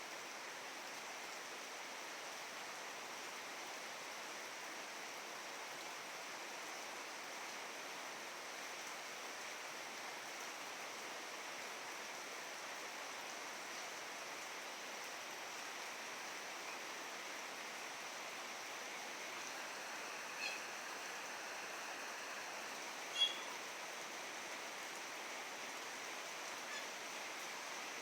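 Steady hiss of falling rain, with a few short, sharp calls from a Javan myna in the last third, the second of them the loudest.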